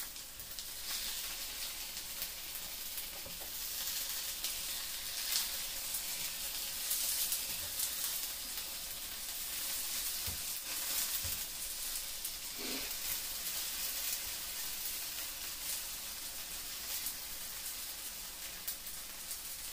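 Pot stickers frying in oil in a hot frying pan: a steady sizzle with scattered small pops.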